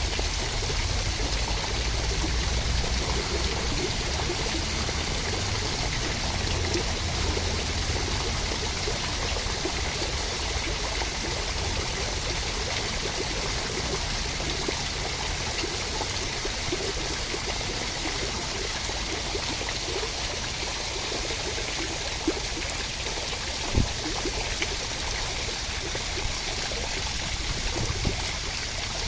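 Steady, even rush of water, a continuous hiss that does not change. About 24 seconds in there is a single short sharp knock, the loudest moment.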